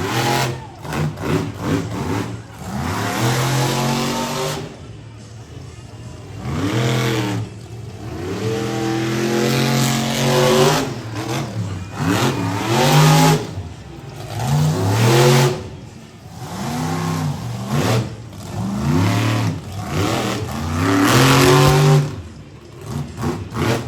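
Monster truck engine revving hard again and again, its pitch climbing and falling back in about seven surges.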